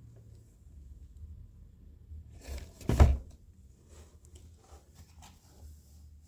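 Handling noise: one loud thump about three seconds in, followed by a few light clicks and taps, over a low steady hum.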